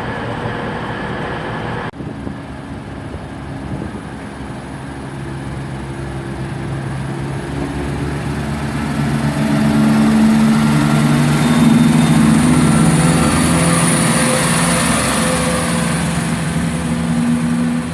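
Diesel multiple unit's engines working as it pulls away, the engine note growing louder about nine seconds in, with a thin high whine above it, and then holding steady.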